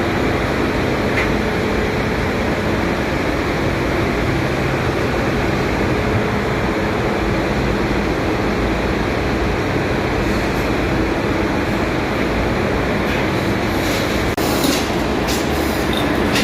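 Steady, loud machinery noise of a ship's engine room running throughout, with a few short metallic knocks near the end.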